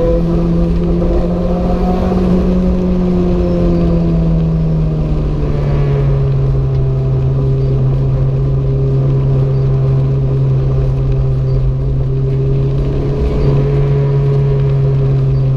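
Renault 5 GT Turbo's turbocharged four-cylinder engine running under load at speed. Its pitch climbs slightly, drops about four seconds in, then holds steady with a small rise near the end, over a constant low road rumble.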